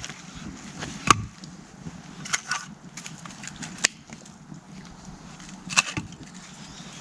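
Handling noises during camp food prep: a few scattered sharp clicks and knocks, the loudest about a second in and another near six seconds, over a faint steady background.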